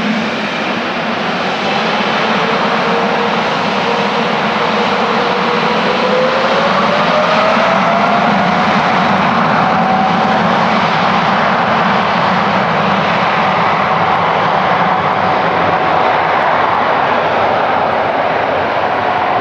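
Boeing 777-300ER's GE90-115B turbofan engines spooling up: a fan whine rises in pitch from about four to ten seconds in, then holds steady over a loud, even rush of jet noise.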